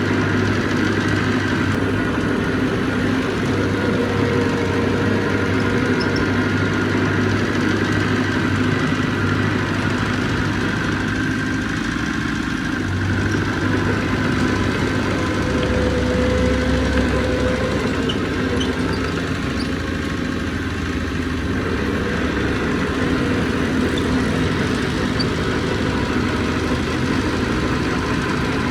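Diesel engine of heavy earthmoving equipment running steadily, with small rises and falls in level.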